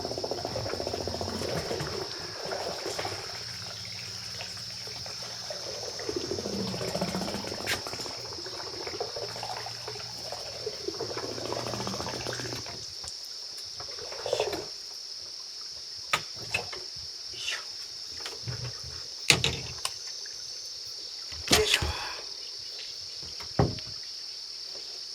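Insects buzzing in a steady high drone, with water splashing and sloshing for the first twelve seconds or so, then a scatter of sharp knocks and clicks, the loudest about two-thirds of the way through.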